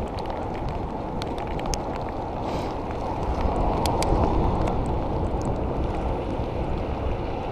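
Wind rushing over the microphone while riding a bicycle in the rain, a steady low noise that swells briefly about halfway through, with scattered sharp ticks and clicks throughout.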